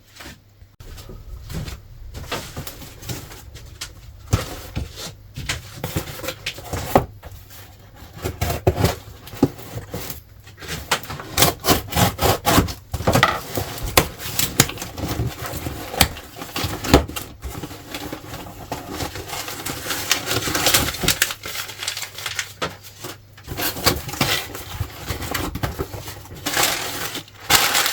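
A parcel being unboxed by hand: cardboard and packaging rustling and scraping, with irregular knocks as parts are handled.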